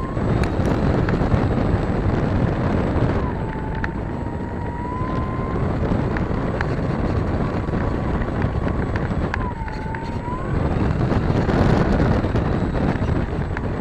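ParkZone F4U-1A Corsair RC plane's electric motor whining in flight, its pitch dipping and rising again twice as it passes, over heavy wind noise on the microphone.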